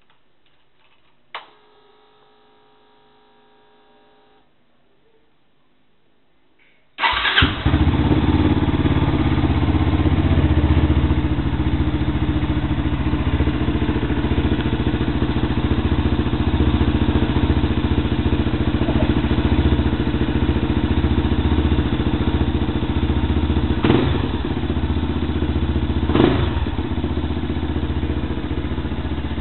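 Yamaha Fazer 250's single-cylinder engine with an aftermarket Coyote TRS exhaust, started about seven seconds in and then idling loud and steady, with two brief sharper bursts near the end. Before the start there is a click and a faint whine lasting a few seconds.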